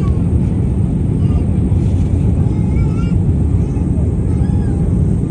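Steady low rumble of an airliner in flight, engine and air noise heard inside the cabin, with faint voices under it.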